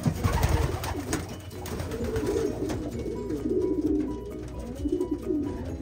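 Domestic pigeons cooing, several low warbling coos following one after another.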